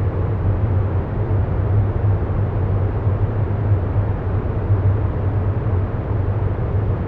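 Steady, even low rumbling noise with a deep hum, unchanging, with no tune or distinct events.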